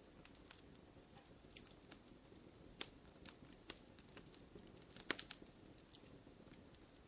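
Wood fire crackling in a fireplace: irregular sharp pops and snaps over a faint low hiss, with a quick cluster of snaps about five seconds in.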